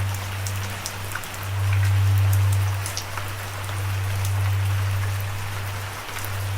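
Steady rain falling, with individual drops ticking sharply over the hiss. Under it is a deep, steady low rumble that swells and fades twice and is the loudest part of the sound.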